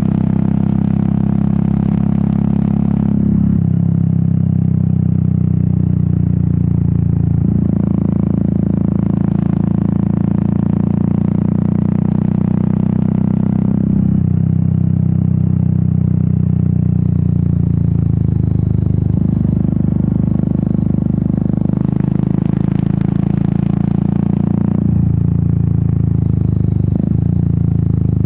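Royal Enfield Meteor 350's single-cylinder engine and exhaust running under way at road speed, a steady low beat whose pitch steps abruptly up or down several times as the revs change.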